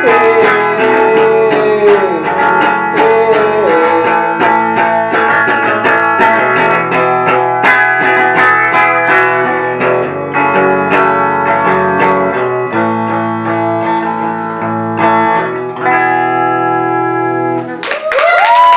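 Live rock band playing an instrumental guitar passage with bass and drums, settling onto held chords and ending on one long chord. Near the end the audience breaks into clapping and cheering.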